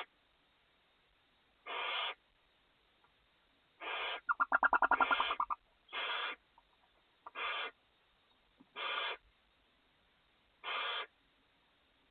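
Barn owls in a nest box give short hissing screech calls, about six of them spaced a second or two apart. About four seconds in comes a louder, rapidly pulsed chittering call lasting about a second.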